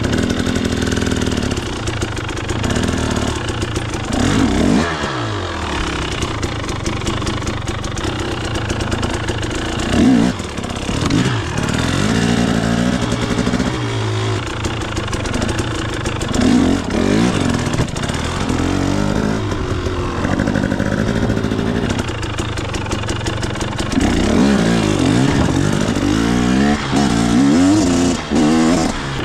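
KTM 250 XC two-stroke dirt bike engine, revved up and down again and again with short rises and falls in pitch between stretches of lower running.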